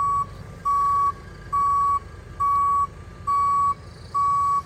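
Back-up alarm of a reversing vehicle: an even string of identical single-pitch beeps, a little more than one a second, over the low rumble of a running diesel engine. It signals the machine is moving in reverse.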